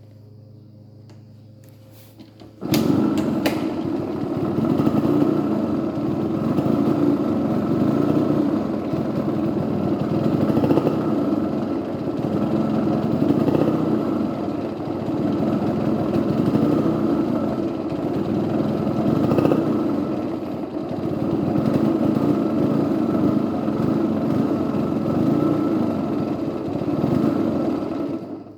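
Yamaha RD50's small air-cooled two-stroke single running, starting abruptly about two and a half seconds in and stopping just before the end. Its level swells and falls every few seconds as it struggles to rev, which the owner suspects comes from a primary (crankcase) compression leak.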